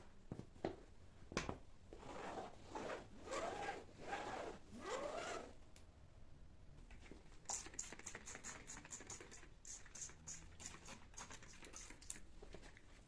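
Household cleaning and handling sounds: a few squeaky rubbing strokes, then a quick run of short scratchy strokes about halfway through.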